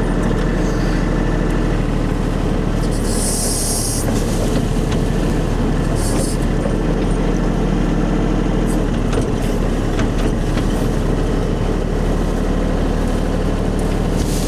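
Kubota tractor's diesel engine running steadily while its backhoe is worked and lowered to the ground. Brief hisses come about three and six seconds in.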